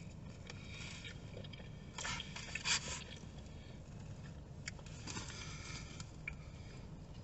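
A man chewing a mouthful of fried chicken sandwich drenched in hot sauce, wet and messy, with a few short crunchy, smacking bursts about two and five seconds in, over a low steady hum.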